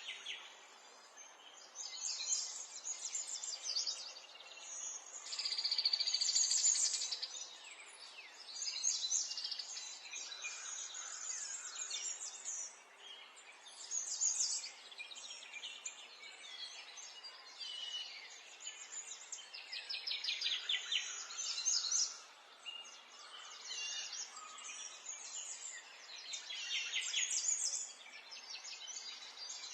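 Several small birds chirping and singing over one another, with bursts of rapid trills every few seconds, over a faint steady background hiss.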